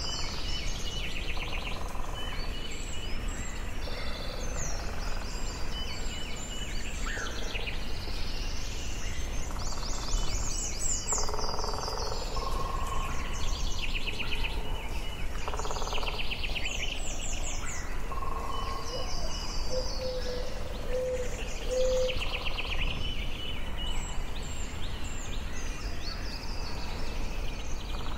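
Forest ambience: many birds singing and calling at once, short overlapping phrases and trills, over a steady low background hiss.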